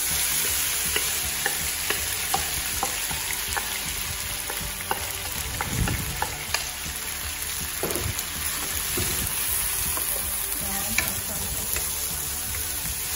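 Pounded cassava leaves sizzling in hot oil in a wok, the sizzle jumping up as they go in at the start. A wooden spatula scrapes and clicks against the pan as they are stirred.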